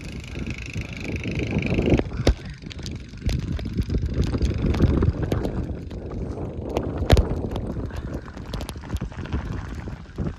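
Wind buffeting the microphone in a heavy snowstorm, with irregular crunching steps through deep snow from about two seconds in.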